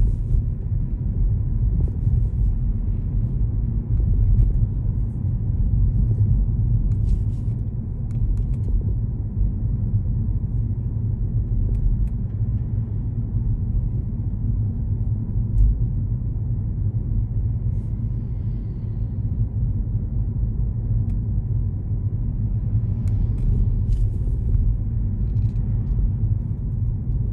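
Steady low rumble of road and engine noise from inside a moving car, with a few faint scattered clicks.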